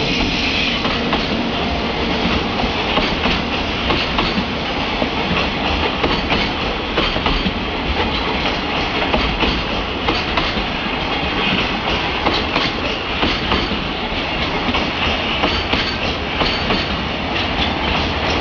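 JR Freight container train passing close by, its wheels clattering over the rail joints in a steady run of clicks over a continuous rolling roar.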